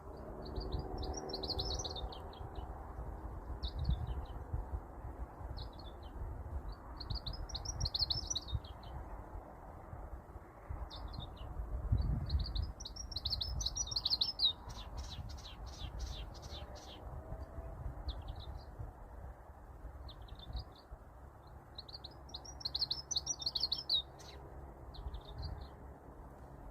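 A small bird singing: a twittering song phrase repeated four times, with short single notes in between and a quick run of ticks about halfway through. A low rumble sits underneath.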